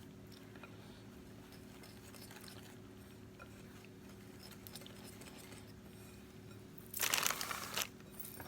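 Wire whisk stirring dry pudding mix (sugar, cocoa, cornstarch and salt) in a bowl: faint light scraping and ticking, with a louder brisk scraping burst a little before the end, over a low steady hum.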